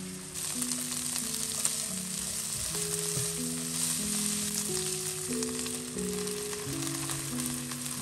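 Green beans, sliced onion and green chillies sizzling as they stir-fry in a nonstick pan, stirred with a silicone spatula. The sizzle starts just after the opening and holds steady.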